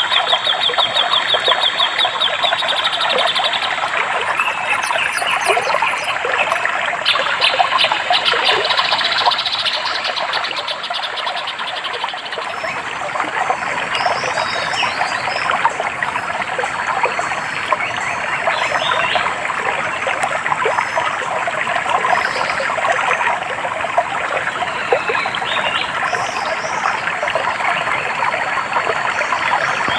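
A small stream babbling steadily, with birds calling over it. A fast high trill comes at the start and again about a quarter of the way in, and short high chirps are scattered through the second half.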